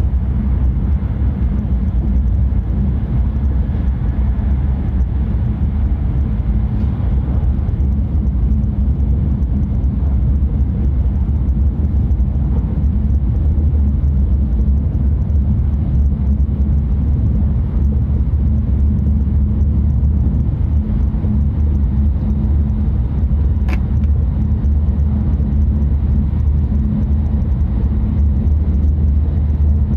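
Tohoku Shinkansen train running at speed, heard from inside the passenger cabin: a steady low rumble of wheels and running noise. A single short click sounds once, a little past two-thirds of the way through.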